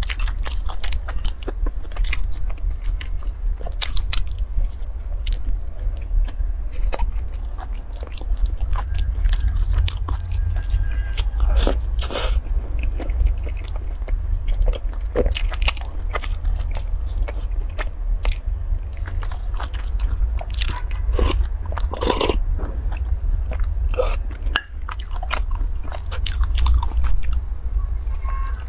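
Close-miked biting and chewing of a soft bread bun topped with meat floss: many sharp clicks and wet mouth sounds, over a steady low hum.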